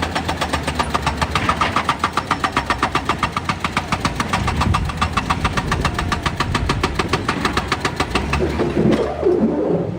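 Excavator's diesel engine running with a fast, even beat of about eight pulses a second. Near the end the beat gives way to a louder, rougher noise that cuts off suddenly.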